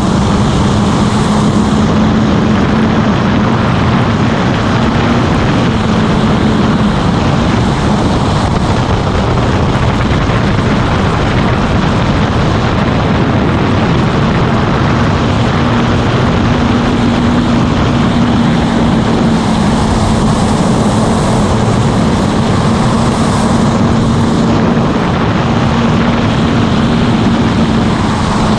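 Motorcycle engine running at a steady cruising speed, its hum holding a near-constant pitch, with heavy wind rushing over the microphone.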